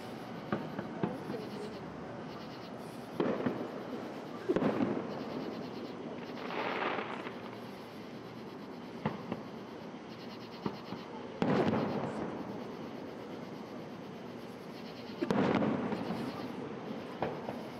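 Fireworks display: about four aerial shells bursting with loud bangs that fade away in an echo, with smaller sharp pops scattered between them.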